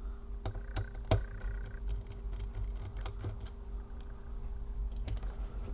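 Irregular light clicks and taps of a small screwdriver working the keyboard screws on a Dell Latitude E4310's plastic case, with a brief squeak about a second in. A steady low hum runs underneath.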